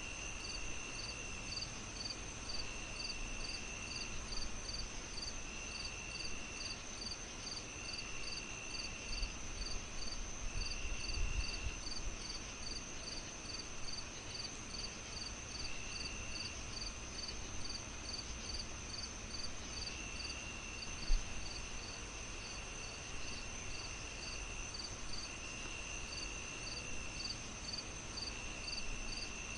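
Crickets chirping in a steady chorus: a high pulsing chirp about two to three times a second over a continuous high trill, with a lower trill that starts and stops every few seconds. A low rumble runs beneath it, with one sharp pop about 21 seconds in.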